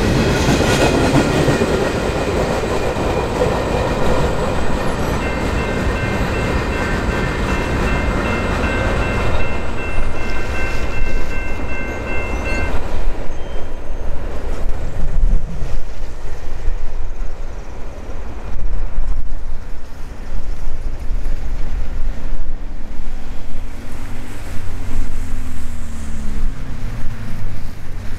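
Freight train of covered hoppers and tank cars rolling past: a steady rumble and clatter of wheels on rails, with a high ringing tone of several pitches held for about seven seconds in the first half. In the second half, as the train moves away, the sound turns uneven and gusty, with wind buffeting the microphone.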